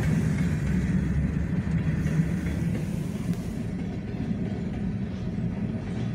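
Susquehanna freight train of covered hopper cars rolling along the rails, a steady low rumble that slowly fades as the cars move on.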